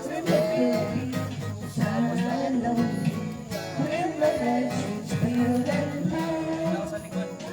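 Song sung over guitar accompaniment.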